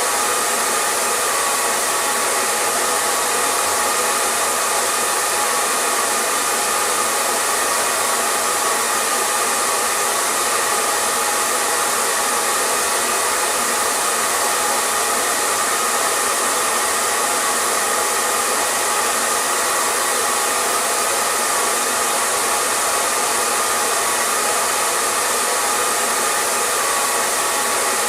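Hair dryer running steadily: an unbroken rush of blown air with a faint motor whine, no change in speed.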